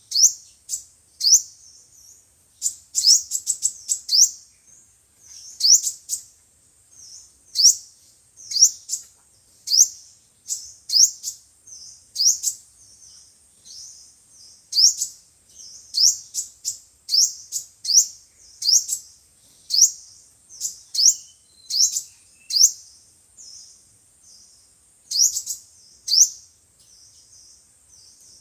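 Sunbird calls played as a lure recording: short, sharp rising chirps, one or two a second in uneven runs with brief pauses. A faint steady high whine sits under them.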